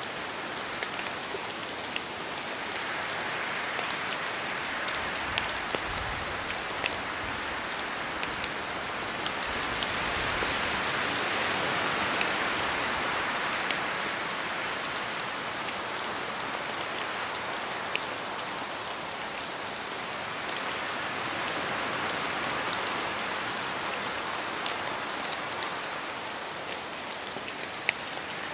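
Steady rain falling, with scattered sharp ticks of single drops hitting close by. The hiss swells and eases slowly every several seconds, as with gusts of wind.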